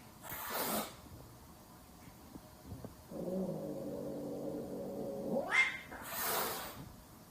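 Domestic cats in a standoff: a sharp hiss, a pause, then a long low growling yowl that sweeps up into a brief shriek, followed by another hiss.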